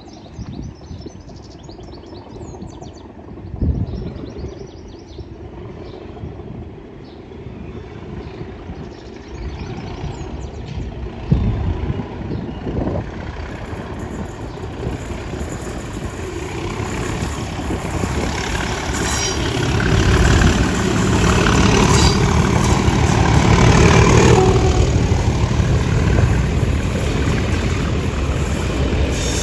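Birds chirping at first, then a Class 37 diesel-hauled test train approaching and growing steadily louder. The lead locomotive's engine passes about two-thirds of the way through, followed by the coaches' wheels rumbling over the rails.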